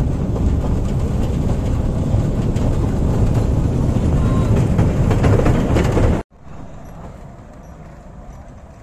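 Narrow-gauge (600 mm) passenger train running, heard from an open coach: a steady, loud low rumble of the wheels on the rails. About six seconds in it cuts off abruptly to a much quieter rumble of the train moving away.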